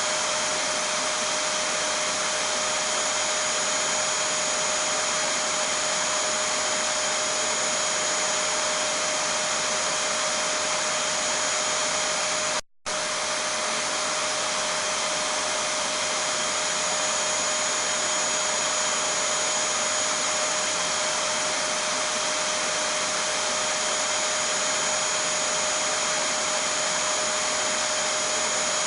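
Vacuum cleaner running steadily, an even rushing whine with a constant motor pitch, played as soothing noise for a baby. It cuts out for a split second about halfway through, then resumes unchanged.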